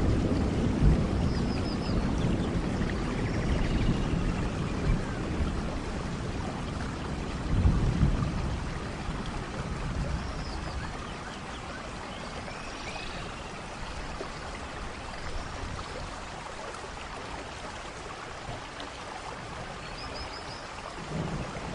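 Steady tropical rain, with a low thunder rumble that dies away over the first half and swells briefly about eight seconds in. Faint bird chirps come through now and then above the rain.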